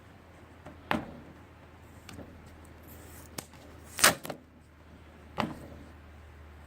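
Roll of tape being pulled out and handled: a few sharp clicks and knocks, the loudest about four seconds in, over a faint steady low hum.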